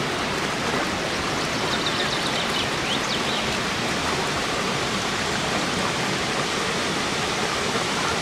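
Steady rush of falling water from the Dzhuryn waterfall.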